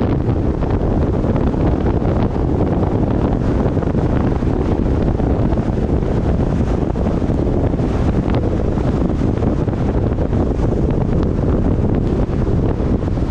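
Steady wind rushing over the microphone of a roof-mounted action camera on a moving car, with the car's road noise beneath it.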